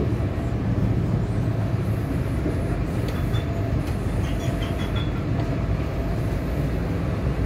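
Inside the carriage of a moving NI Railways diesel multiple unit: a steady running rumble of the train on the track, with a few faint high squeaks midway through.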